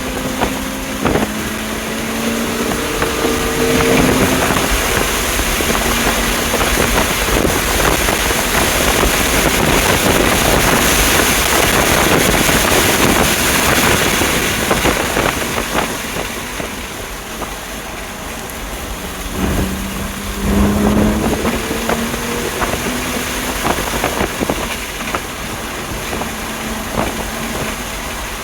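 A 2020 BMW M2 Competition's twin-turbo straight-six pulling hard at speed, its pitch rising near the start and again about two-thirds through, with heavy wind and road noise in between.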